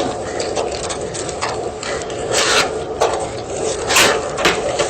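Block of gym chalk being crushed and crumbled: a run of dry crunching and gritty scraping, with louder crunches about two and a half and four seconds in.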